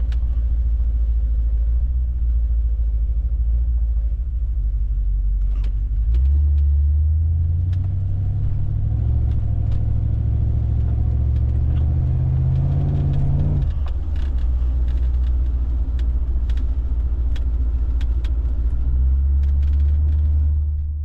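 Car engine and exhaust droning low while driving, the pitch climbing under acceleration from about six seconds in, dropping suddenly about two-thirds of the way through, and climbing again near the end.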